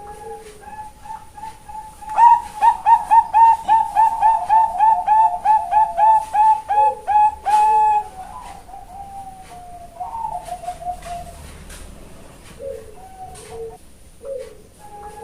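Female Bangkok zebra dove (perkutut) calling: a few soft coos, then from about two seconds in a loud, rapid run of rippling coo notes, about five a second, that stops after about six seconds, followed by a softer trill and scattered coos.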